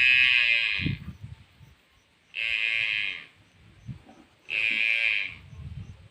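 Buffalo calf calling three times, each high, bawling call lasting about a second, about two seconds apart.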